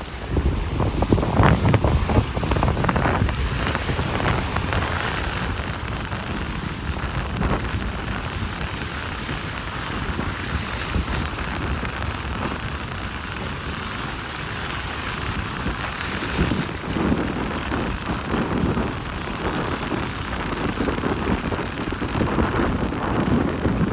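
Stormy weather at sea: a steady rushing hiss, with low wind gusts buffeting the microphone that are strongest about two seconds in and again near the end.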